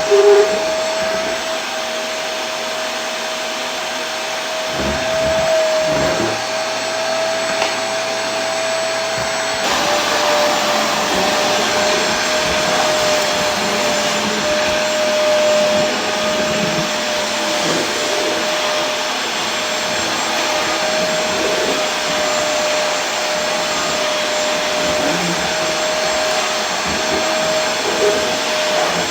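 Vacuum cleaner running steadily: a constant motor whine over a broad rushing hiss, the whine dropping slightly in pitch about ten seconds in.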